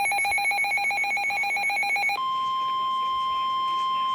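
Electronic alert tones from a NOAA Weather Radio broadcast: a rapidly pulsing, warbling tone that switches abruptly about two seconds in to one steady high beep. The steady beep is the weather radio's 1050 Hz warning alarm tone, which signals that a warning broadcast follows.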